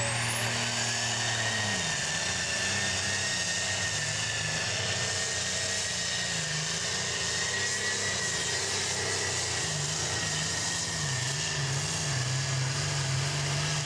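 Turbocharged diesel engine of an 8,300 lb super stock pulling tractor running at full throttle under load. A high turbo whine climbs to a piercing pitch about a second in and holds, over a wavering engine note. Near the end the whine begins to fall as the engine comes off the throttle.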